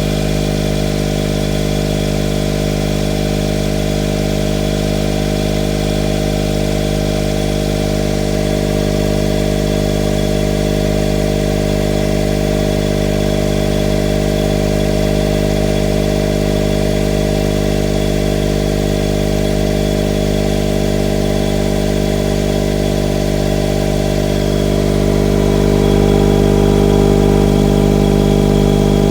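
Honda S660's small turbocharged three-cylinder engine idling steadily through an HKS Hi-Power Spec-L II aftermarket muffler while warming up after a cold start in sub-zero temperatures. The exhaust note grows a little louder near the end.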